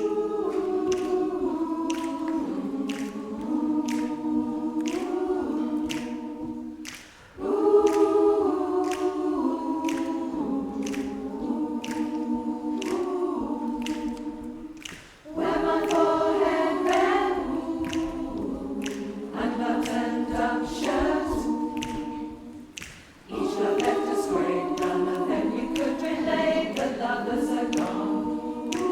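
Community choir singing a cappella in harmony, in phrases of about seven seconds with short breaks for breath between them.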